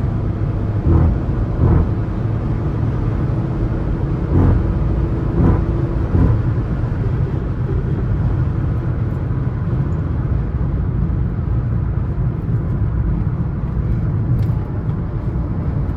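Steady low rumble of a Suzuki S-Cross 1.3 DDiS four-cylinder turbodiesel and its tyres at highway speed, heard from inside the cabin, with a few brief knocks in the first six seconds.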